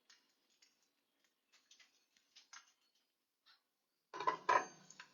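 Scattered faint clicks and taps, then a short, louder clatter of several sharp knocks about four seconds in.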